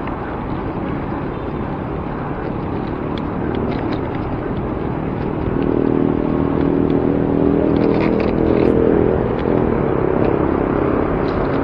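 Road traffic noise heard from a bicycle in city traffic: a steady rumble, with a motor vehicle's engine growing louder and passing close by from about halfway through.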